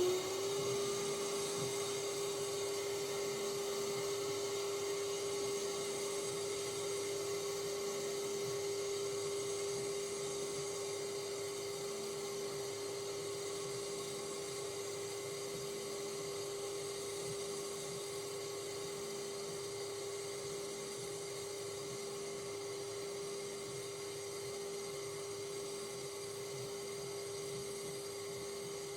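Small electric motor that has just spun up, running at a steady whine over a faint hum, easing slightly quieter over the span.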